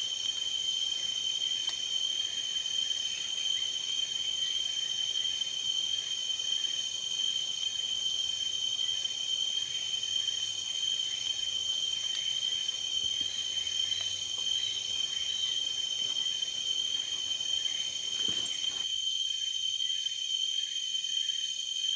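Steady chorus of forest insects: a continuous high ringing built of several layered, unbroken tones.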